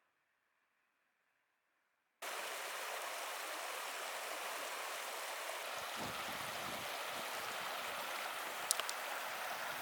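Steady rushing of a creek's running water, starting abruptly about two seconds in after near silence, with a couple of faint clicks near the end.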